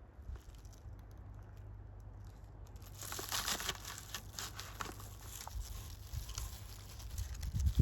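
Dense crinkling and crackling starting about three seconds in, made of many small sharp clicks, with a few louder clicks near the end.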